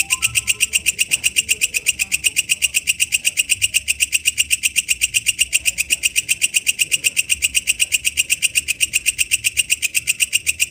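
Walang kecek, a katydid, calling in the wild: a steady, rapid train of sharp, high-pitched chirps, about eight a second, without a break.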